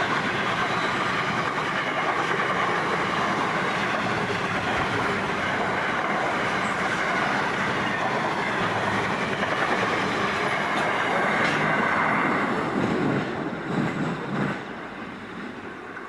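Container wagons of a long freight train rolling past with a steady rumble of wheels on rail. A few louder knocks come about thirteen to fourteen seconds in, then the sound fades as the train moves off.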